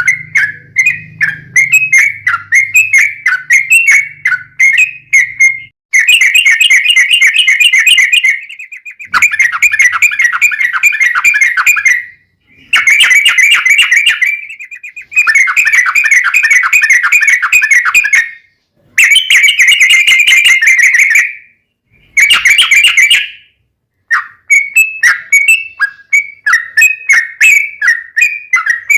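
Yellow-vented bulbul (trucukan) song: a run of quick chirpy notes, then six long, rapid trills of two to three seconds each with short pauses between them, then quick separate notes again near the end.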